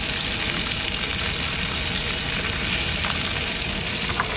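Sausages sizzling in a frying pan: a steady, even hiss of frying fat.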